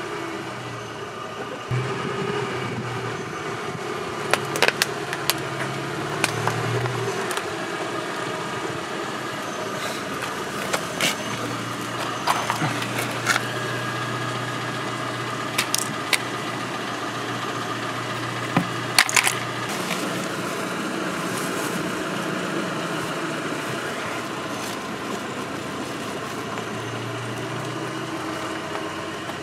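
Car engine running steadily at low speed, with a few sharp clicks and cracks of broken plastic scattered through.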